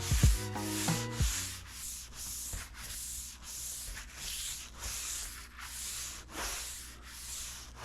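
Brush scrubbing the car's bodywork in steady back-and-forth strokes, about two a second. A pitched hum underneath stops about a second in.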